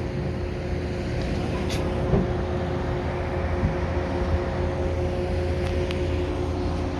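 Steady low rumble with a constant hum from a large cruise ship's machinery, running evenly.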